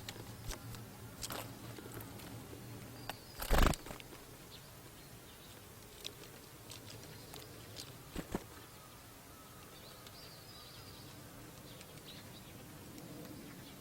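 Small birds at a seed feeder: faint high chirps, with a few sharp knocks, the loudest about three and a half seconds in and a quick pair near the middle.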